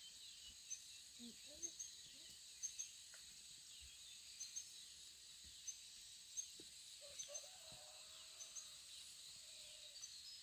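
Faint outdoor forest ambience: a steady high insect drone with short bird chirps repeating every second or so.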